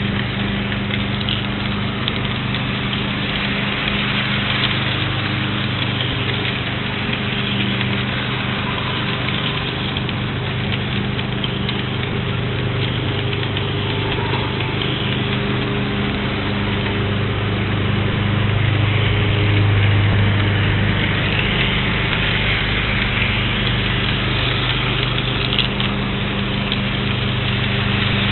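An engine idling steadily with a low, even hum that swells slightly about two-thirds of the way through.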